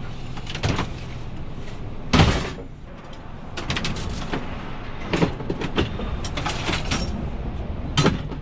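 Scrap metal being handled and dropped: a series of metallic clanks and knocks, the loudest about two seconds in, over a steady low hum.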